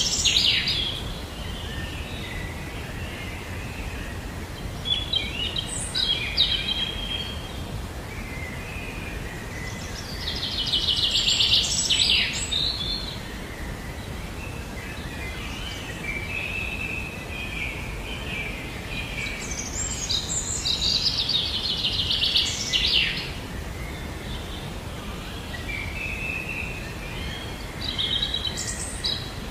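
Several birds singing over steady background noise: a longer, rapid song phrase about every ten seconds, with shorter chirps and twitters in between.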